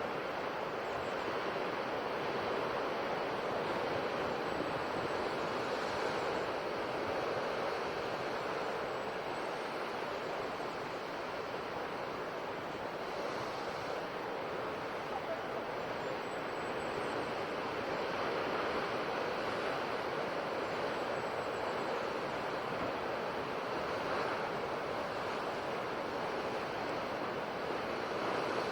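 Sea waves washing onto the shore: a steady rush of surf that swells and eases slowly.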